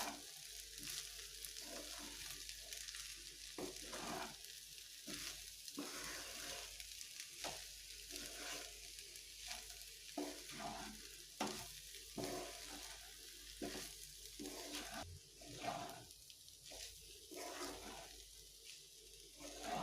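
Chicken fried rice sizzling in a hot pan while being stirred with a spatula: a steady frying hiss broken by frequent, irregular scraping strokes.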